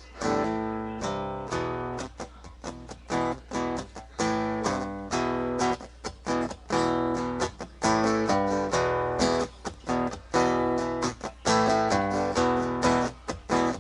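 Acoustic guitar strumming chords in a steady rhythm, with short breaks between the strokes.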